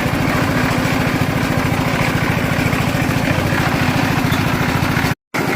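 Small concrete mixer engine running steadily with a fast, even pulse. The sound drops out for an instant near the end.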